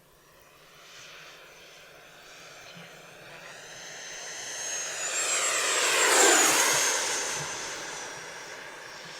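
The FMS F-18F's 70mm electric ducted fan whining as the model jet makes a fast pass, swelling to its loudest about six seconds in, then dropping in pitch and fading as it goes by.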